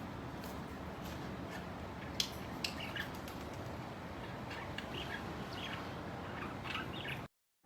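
Pet birds in a cage giving short, scattered chirps and squawks over a steady background hiss; the sound drops out briefly at the very end.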